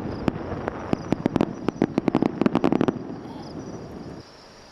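Fireworks bursting overhead: a rapid run of sharp cracks and bangs that stops about three seconds in, its rumbling echo dying away about a second later.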